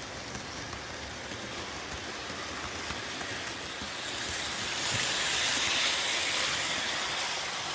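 Model train running on its track: a steady rolling hiss of wheels and motor that grows louder about four seconds in as the train comes close, then eases off a little.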